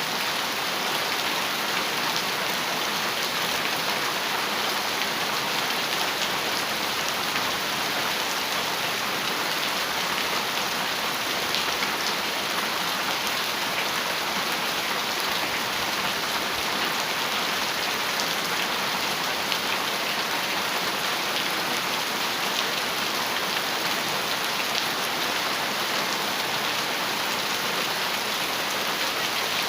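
Heavy rain drumming steadily on a metal roof, a dense even hiss with many fine drop ticks.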